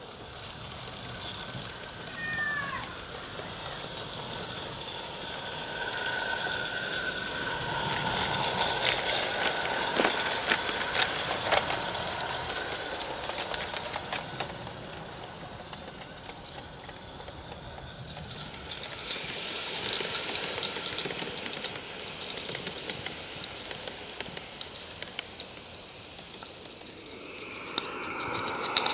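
Garden-scale live steam locomotive running past, its steam hiss swelling to loudest about eight to eleven seconds in with rapid clicking from the wheels and track, then fading and swelling again around twenty seconds in.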